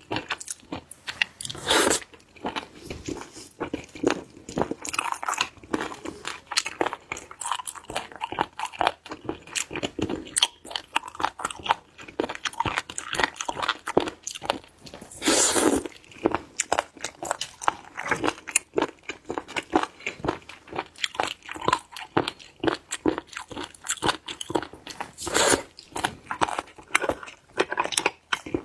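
Close-up mouth sounds of chewing and crunching sliced sea cucumber: a dense run of crisp, wet crackles, with louder crunching bites about a quarter of a second in, halfway through and near the end.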